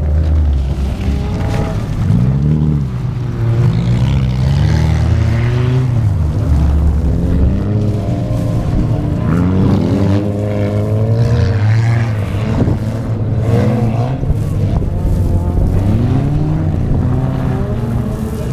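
Wreck-race cars' engines revving on a dirt track, climbing in pitch as they accelerate and dropping back as they ease off, again and again.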